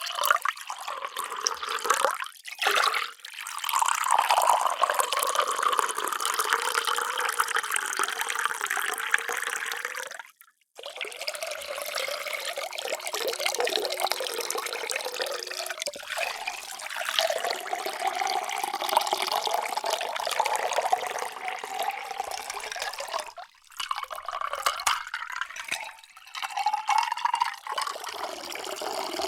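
Water being poured in a steady stream into a vessel, splashing and gurgling as it fills, in several separate pours. The sound cuts off cleanly about a third of the way through, with a few shorter breaks between pours.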